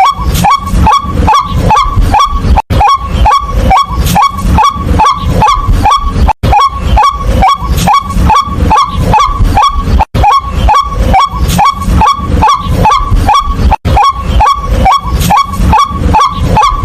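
White-breasted waterhen calling a fast, steady series of loud kwak notes, about three a second, with a brief break every few seconds.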